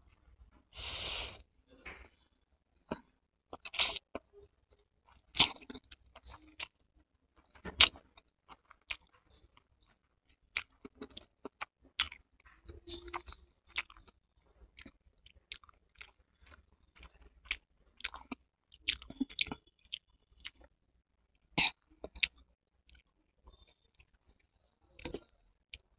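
A person chewing a mouthful of chowmein noodles close to the microphone: scattered wet mouth clicks and smacks. There is a short slurp of noodles about a second in.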